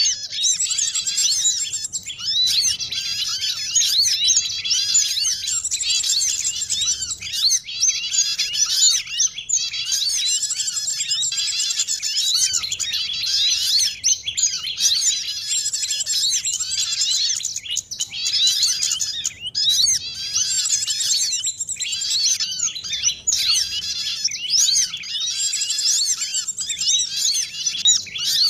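Bird-lure recording of many small songbirds chirping and twittering over one another in a dense, unbroken chorus of quick high chirps. The track mixes calls of small birds such as little spiderhunter (sogon), white-eye (pleci) and prinia (prenjak), played to draw wild birds in for trapping.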